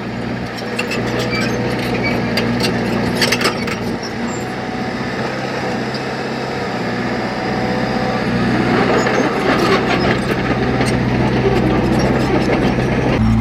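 A heavy construction machine's diesel engine running steadily, with scattered metallic clicks and rattles, most around three seconds in and again near the middle.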